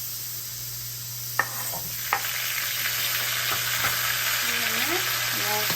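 Potatoes frying in a hot pan, sizzling steadily, with two sharp knocks about one and a half and two seconds in. After the knocks the sizzle grows louder.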